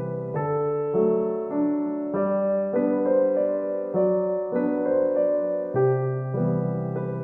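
Background music: a gentle solo piano piece, notes and chords changing about every half second to second.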